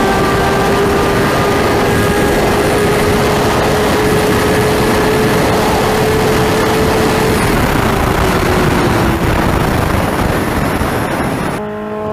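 Superbike engine running at a steady high speed under heavy wind rush, its pitch holding and then falling about two thirds of the way through as the bike slows.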